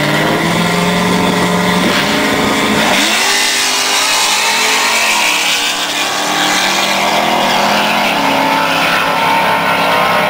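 Car engines at a drag strip. A held engine note gives way to a quick rise in pitch as one is revved about three seconds in, then a stretch of rough engine noise, and a steady engine note returns near the end.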